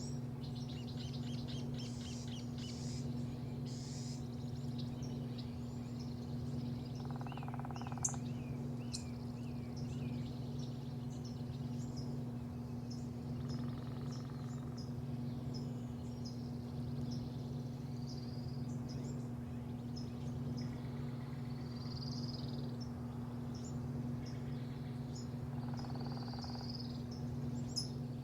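Songbirds chirping and calling, with many short high chirps and a run of quick falling notes, over a steady low mechanical hum.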